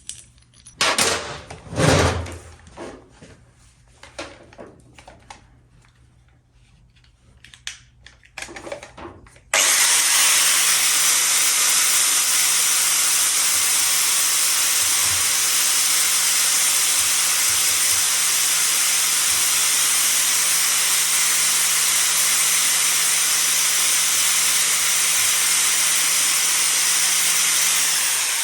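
Scattered knocks and clatter as the metal discs are handled. About ten seconds in, an electric grinder starts abruptly and runs steadily, with a constant motor hum, cleaning up the metal discs ready for welding.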